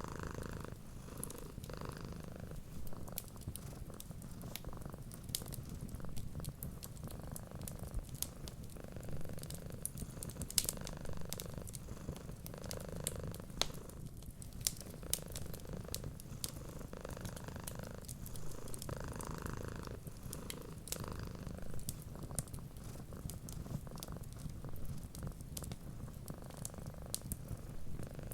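Cat purring steadily, a continuous low rumble with soft swells, with many small sharp crackles of a wood fire throughout.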